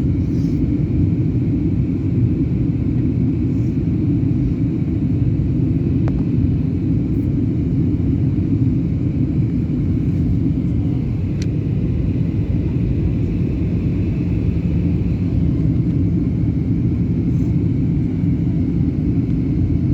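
Steady low rumble of an airliner's engine and airflow noise, holding level throughout.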